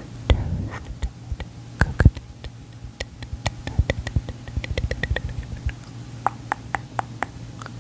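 Close-miked ASMR mouth sounds: a run of irregular, sharp, wet clicks, coming quicker and denser from about three and a half seconds in until near the end.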